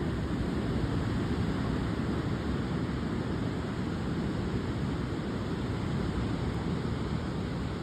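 Typhoon wind buffeting the microphone over the steady rush of heavy surf on the beach.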